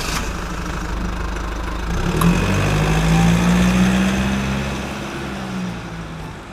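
A vehicle engine running. Its hum strengthens about two seconds in, then gradually dies away.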